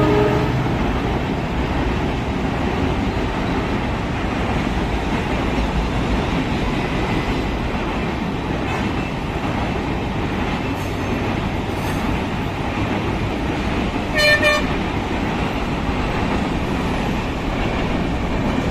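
Passenger train running with a steady rumble. A train horn tails off about half a second in, and a short horn toot sounds about fourteen seconds in.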